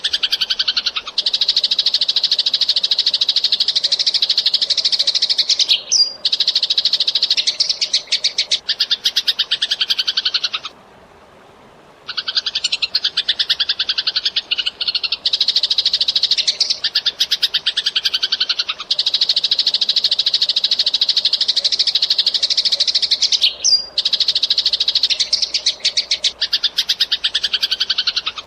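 Eurasian tree sparrows chirping energetically in a fast, dense, unbroken stream of rapid chirps, with one short break about ten seconds in.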